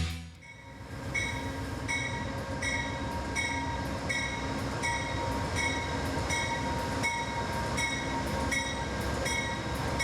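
Train running with a steady rumble, while a short high ringing tone repeats about twice a second.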